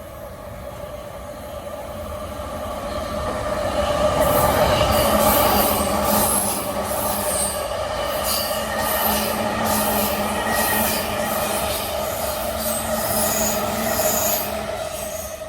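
Electric train passing through a station at speed. The sound builds over the first four seconds, then holds as a loud, steady run of wheel-on-rail noise with a steady tone and many quick clicks, and falls away near the end.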